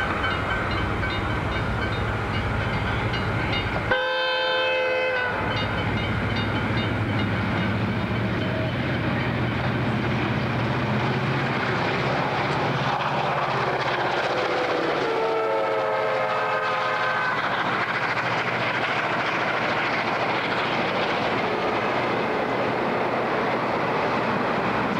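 A train running past close by with steady rolling and engine noise and some wheel clatter. Its horn sounds about four seconds in and again about fifteen seconds in, the second blast lasting around two seconds.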